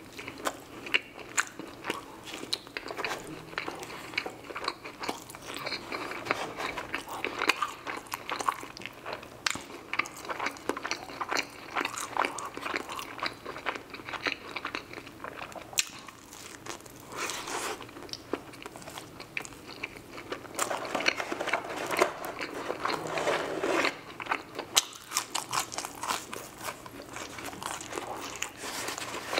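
Close-miked eating: crunchy bites into a fried egg roll and wet chewing, with many irregular crisp crackles and mouth smacks.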